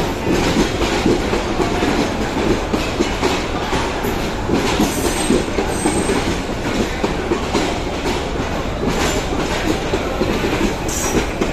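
Mohanagar Express passenger train rolling through the station at close range: a steady heavy rumble with the wheels clacking over rail joints. There are brief high wheel squeals about five seconds in and again near the end.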